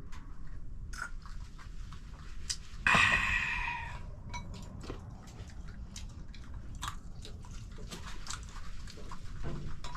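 Eating at a table: chewing and light clicks of dishes and utensils, with one louder, sudden, noisy sound about three seconds in that fades over about a second.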